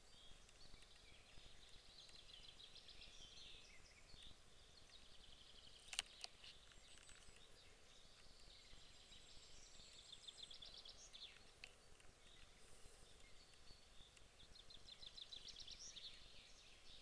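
Faint birdsong: several songbirds calling, with repeated rapid trills. One sharp click about six seconds in.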